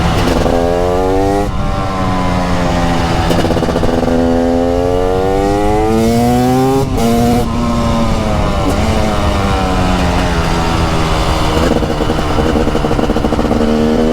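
TM Racing SMR 300 two-stroke single-cylinder supermoto engine pulling hard through the gears, its pitch climbing and dropping at each upshift about a second and a half in and again around three seconds. After a longer pull, the revs ease off through the middle and climb again near the end.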